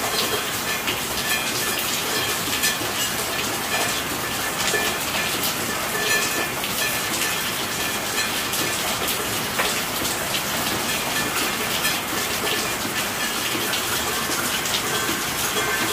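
Steady rain: an even hiss of many drops at a constant level, with no lulls.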